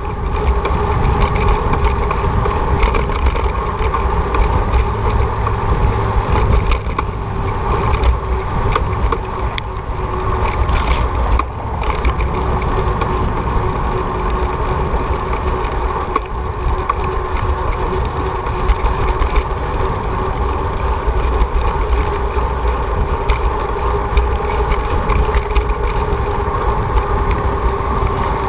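Wind buffeting the microphone of a moving bicycle, with a steady hum.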